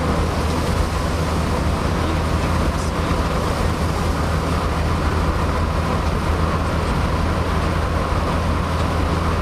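Steady road and engine noise heard from inside a moving car, a constant low drone under a hiss.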